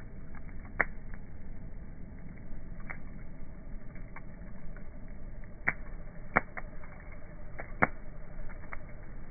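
Wood fire crackling, played back slowed down: sharp pops come irregularly over a low steady rumble, with a few louder ones in the second half.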